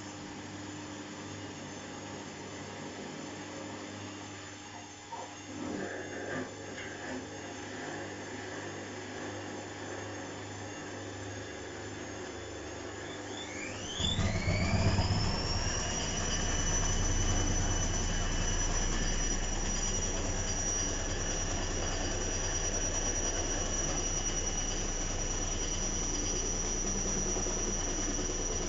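Washing machine running with a low hum, then about halfway through its motor spins up for the spin cycle: a quickly rising whine that levels off into a steady high-pitched whine over the rumble of the spinning drum.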